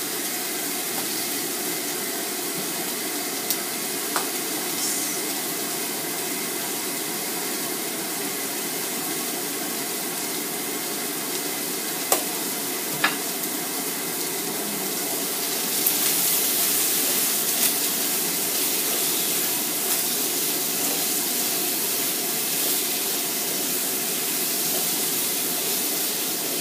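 Sliced baby marrow sizzling in coconut oil in a frying pan, a steady frying hiss with a few sharp clicks. The sizzle grows louder and brighter a little past halfway.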